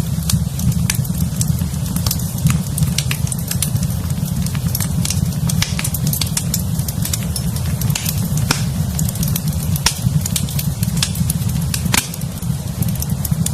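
Wood fire in a fireplace crackling, with frequent sharp pops and a louder pop near the end, over a steady low rumble.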